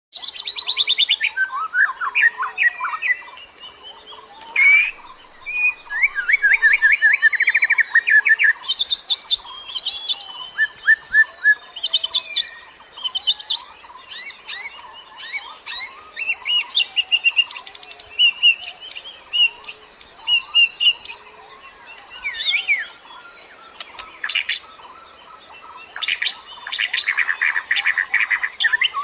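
Lure birdsong: many small birds chirping and twittering in quick, varied phrases, with fast trills and rapid runs of high notes, dense and busy.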